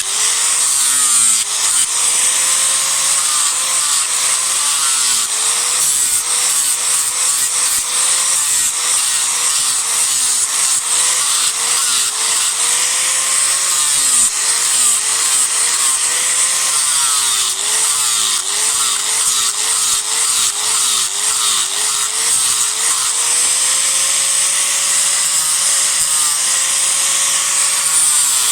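Disc grinder rough-carving a block of Japanese cedar: a continuous loud grinding hiss over the motor's whine, which dips and recovers again and again as the disc bites into the wood and is eased off.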